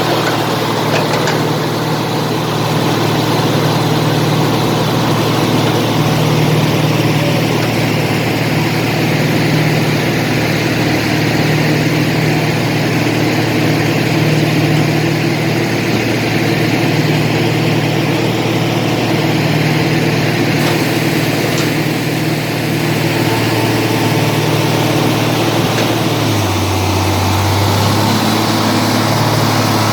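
Heavy diesel engine of earthmoving machinery running steadily, its note shifting lower near the end.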